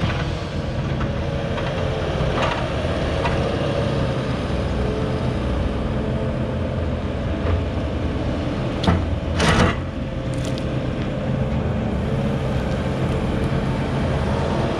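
Heavy equipment's diesel engine running steadily. A few short knocks come through at about two and a half seconds and again near the middle, followed by a louder clunk.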